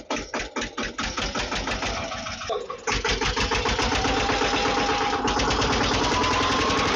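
Tractor engine starting: separate beats quicken over the first few seconds, then about three seconds in it catches into a steady, fast run whose pitch climbs slowly.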